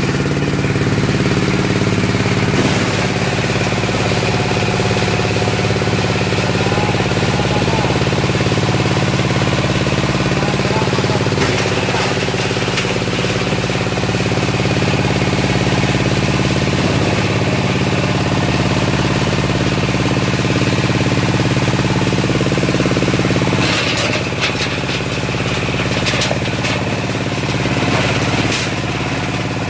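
Waste sorting machine running with a steady mechanical hum, with scattered clattering knocks in the last few seconds.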